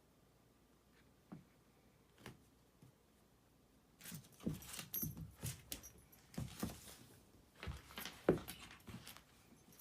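Faint, irregular clicks, taps and light jingling from a cockapoo puppy playing at someone's feet, scattered at first and then coming thick and fast from about four seconds in.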